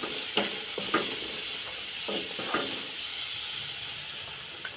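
Tomato, green-chilli and garlic paste sizzling in hot mustard oil in a pan as it is fried down, with a steady hiss. A wooden spatula scrapes through it a few times as it is stirred.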